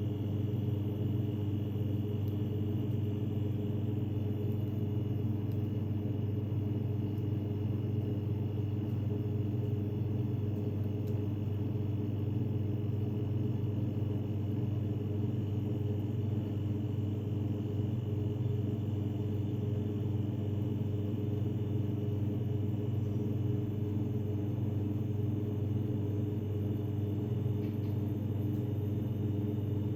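A steady low hum with several held tones, unchanging throughout, like a small motor or electrical appliance running.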